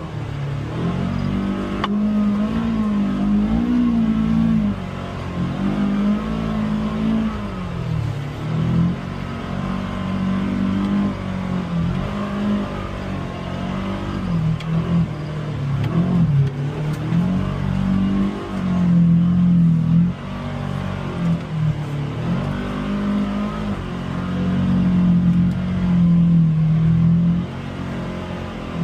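Polaris Xpedition UTV engine running under changing throttle on an off-road trail, its note rising and falling every few seconds as it is revved and eased off.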